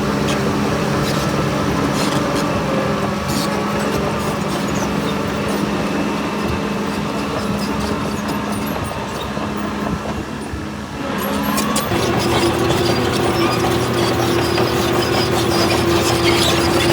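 Diesel engine of heavy earthmoving machinery running steadily, with scattered metallic clanks. About eleven seconds in, the engine note drops away briefly, then a higher, louder steady engine note takes over.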